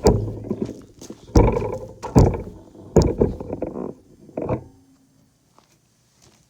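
Wooden 2x4 boards being handled, knocking and clattering against each other: five loud hollow knocks, each with a short ringing tail, over about four and a half seconds, then they stop.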